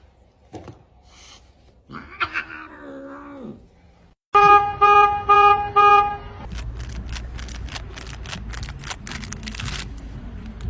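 A cat's wavering meow, then four short, loud, evenly spaced beeps, followed by a quick run of clicking and rustling.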